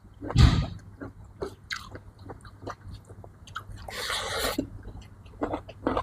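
Close-up eating sounds: a person chewing and biting food, with short wet clicks and crunches. There is a louder bite about half a second in and a brief hissing noise about four seconds in.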